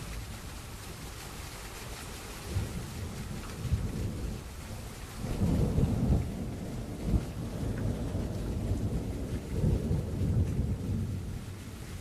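Thunderstorm: steady rain hissing while thunder rolls in low rumbles. The rumble builds a couple of seconds in, is loudest around the middle, and swells again near the end.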